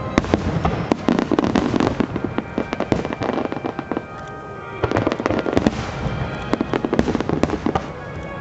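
Fireworks display: a dense barrage of firework bangs and crackles, easing off briefly a little past halfway before another rapid volley.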